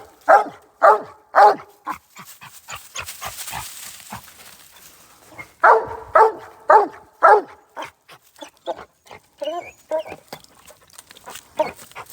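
Coonhound tree-barking at a treed raccoon: a run of loud, evenly spaced barks about two a second, a short pause, then another loud run of four barks, trailing off into fainter, wavering barks near the end.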